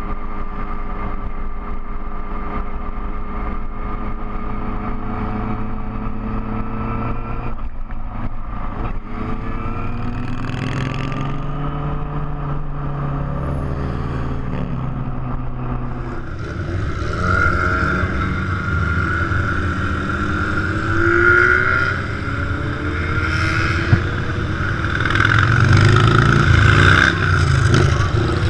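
Big motorcycle engine running on the road: a steady engine note that falls and rises in pitch several times as the speed changes, then grows louder with rushing wind noise over the second half.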